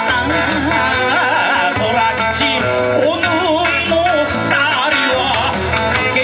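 Kawachi ondo played live: a wavering, ornamented vocal melody over guitar and a steady low accompaniment.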